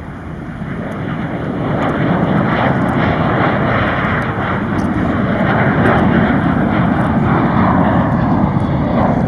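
Jet airliner's engines at takeoff power as it departs, a loud, steady engine noise that builds over the first two seconds and then holds.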